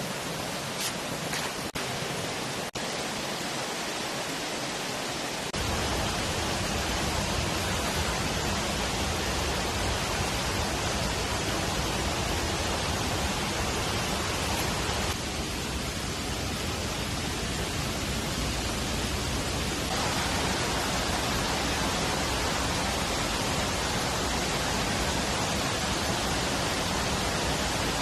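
Steady rushing noise of water, rain or a flowing stream, which grows louder and fuller about five and a half seconds in.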